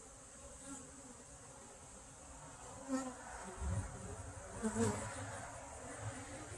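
Honey bees buzzing around an open hive, with a few light knocks and a soft thud around the middle.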